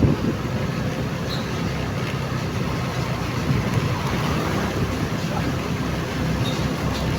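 Motorcycle engine running steadily under way, with road noise.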